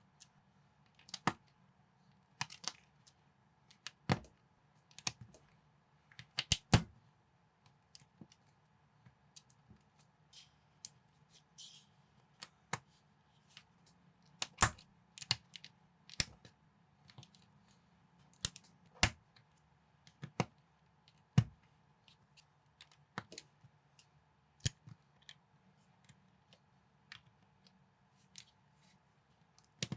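Lego-compatible plastic building bricks being handled and snapped together: irregular sharp clicks and taps, a few of them louder, over a faint steady hum.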